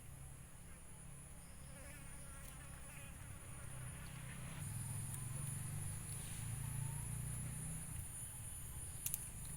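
Insects buzzing: a low buzz that grows louder about halfway through, over a steady high-pitched insect drone.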